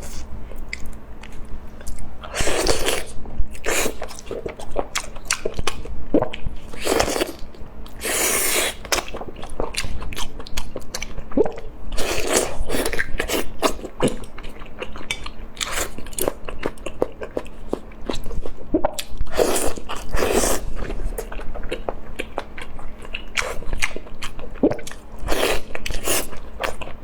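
A person biting, crunching and chewing food, with sharp, irregular crunches throughout.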